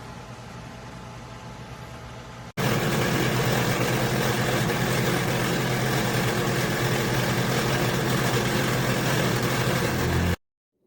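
Ninja Foodi DT201 air fryer oven running, its convection fan giving a steady whirring hum. About two and a half seconds in it suddenly becomes much louder and stays steady, then cuts off abruptly just before the end.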